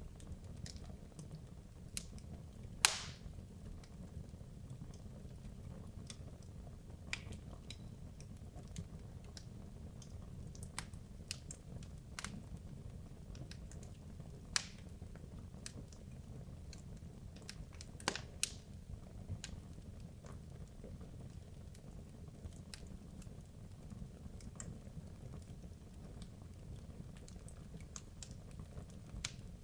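Wood logs burning in a fireplace: scattered sharp crackles and pops over a steady low rumble of the fire, the loudest pop about three seconds in and a pair of strong pops a little past halfway.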